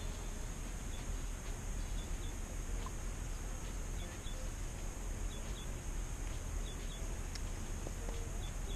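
Outdoor ambience: a steady low rumble, a steady high insect buzz, and a small bird repeating short paired chirps every second or so.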